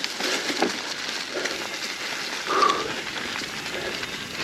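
Dry fall leaves crackling and crunching, with a brief grunt-like sound about two and a half seconds in.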